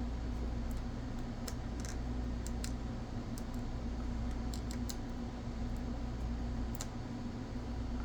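Scattered small clicks and taps of a model locomotive's drive truck being handled and worked with a pry tool, over a steady low hum.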